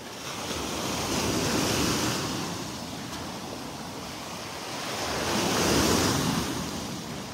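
Gulf of Mexico surf washing onto the beach, two waves swelling and falling away about four seconds apart, with wind rumbling on the microphone.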